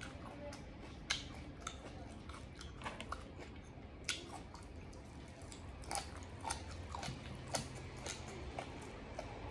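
Close-miked chewing of crunchy braised pig ear and tongue: irregular sharp crunches and mouth clicks, about one or two a second.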